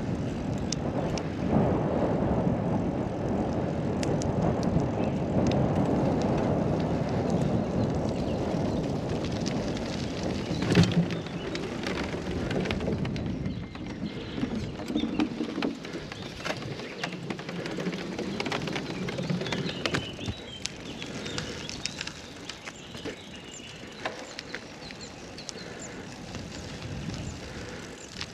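Wind buffeting the microphone as a gusty, uneven rumble, easing about halfway through, with scattered small crackles.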